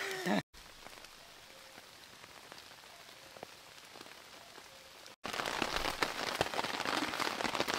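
Steady rain falling on a tarp shelter, with individual drops tapping. It is quieter at first, then louder after a cut about five seconds in. At the very start there is a brief falling voice-like sound.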